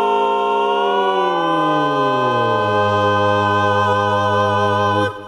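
A four-voice a cappella quartet holds the song's final chord. About a second in, the lower voices slide down to a deep bass note, and the whole chord is cut off together near the end.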